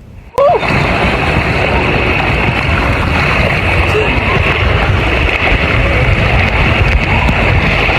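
Water and air rushing past a camera riding down a water slide: a loud, steady rush of noise that begins abruptly about half a second in.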